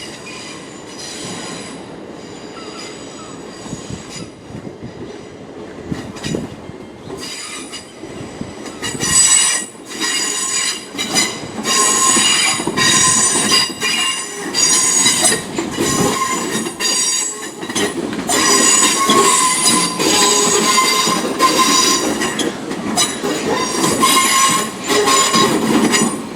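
Railway train moving slowly with its wheels squealing: a shrill, high screech that keeps cutting in and out over a low rumble, faint at first and loud from about nine seconds in.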